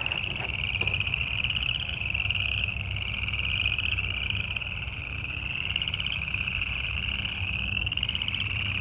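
Loud chorus of many frogs calling at once. The overlapping rapid trills each last about a second and rise slightly in pitch.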